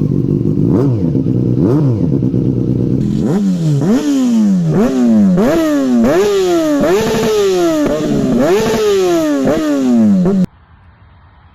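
Yamaha FZ6 S1's inline-four running through a DominatoR GP exhaust with no dB killer, the catalytic converter still fitted. It idles with two quick throttle blips, then is revved in a fast series of about ten sharp blips, each rising quickly and dropping back, before cutting off suddenly near the end.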